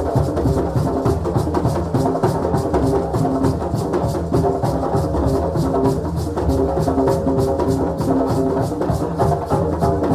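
Several drums playing together in a fast, steady, repeating rhythm, with sharp high strikes keeping an even pulse over the deeper drum tones.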